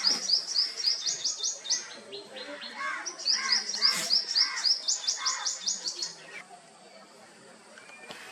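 A bird singing rapid runs of short, high chirps, about six a second, in two bursts: one at the start and a longer one from about three seconds in. During the second burst, lower calls repeat more slowly alongside it.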